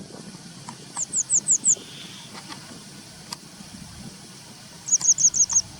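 Grey wagtail calling: two quick runs of sharp, high notes that each slide downward, five about a second in and six more near the end.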